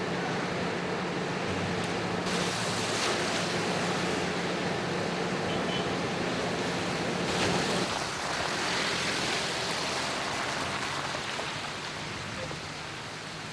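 Steady rushing noise of storm wind and water, with two louder surges about two and seven seconds in. A faint low hum sits underneath for the first half.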